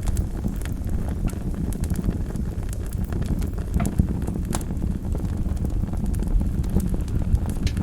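Wood fire burning in a fireplace: a low steady rumble and hiss of the flames with scattered sharp crackles and pops from the burning logs.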